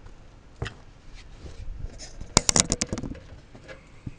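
Sawmill log clamp being worked: a few single clicks, then a quick, loud run of sharp metal clicks and knocks about two and a half seconds in.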